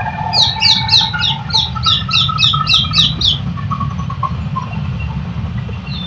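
A bird calling in a quick run of about a dozen short, high notes, each falling in pitch, about four a second, lasting about three seconds, over a steady low rumble.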